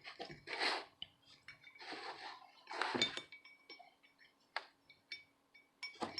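Light clinks, taps and rustles of small metal tools and a charging-port part being handled and repositioned on a workbench, with a few sharp clicks in the second half.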